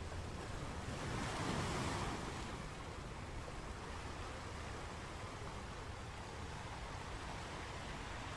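Sea waves washing on the shore: one wave surges in and breaks about a second in, then a steady rushing wash of surf.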